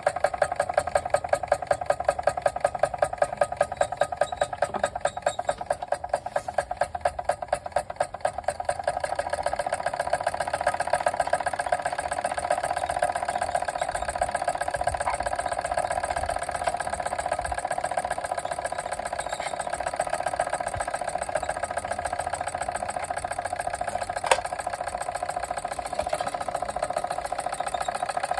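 Machinator Steamfire model steam engine running under steam with a fast, regular beat. The beat is sharply pulsed for the first eight seconds or so, then settles into a steadier, smoother run. A single sharp click comes about 24 seconds in.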